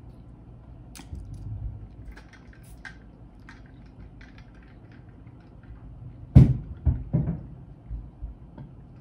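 Close-up mukbang eating sounds from peeling and eating boiled crawfish: small clicks and crackles of shells, with a few loud low thumps about six to seven seconds in.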